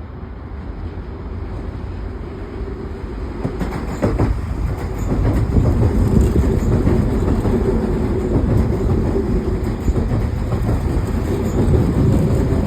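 Semboku Rapid Railway 7020 series electric train running past close by. It grows louder over the first few seconds and then holds a steady rumble with a humming tone. A few knocks of the wheels over rail joints come about four seconds in.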